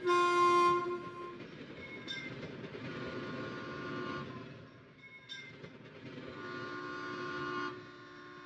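Train sound effect: a loud toot about a second and a half long at the start, then the steady rumble and clatter of a train rolling along, with fainter toots sounding twice more.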